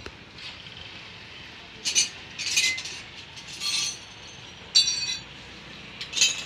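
Metal tools and bicycle parts clinking during hand repair work: about five short, sharp, ringing metallic clinks spread over several seconds.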